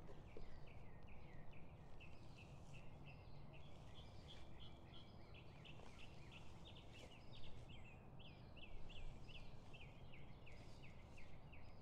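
A songbird calling a fast, steady run of short chirps, about four a second, faint over a low background hum.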